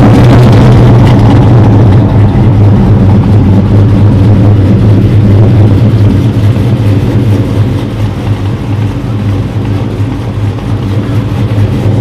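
A car engine running loud and close at a steady speed, a deep even drone, easing off a little after about seven seconds.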